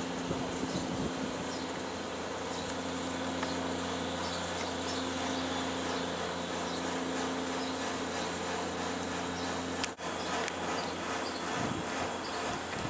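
A steady, buzzing mechanical hum with a low drone, broken by a brief click about ten seconds in.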